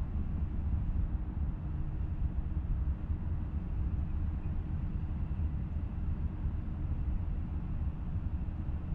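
Falcon 9 first stage's nine Merlin engines burning during ascent, heard as a steady low rumble through the rocket's onboard feed.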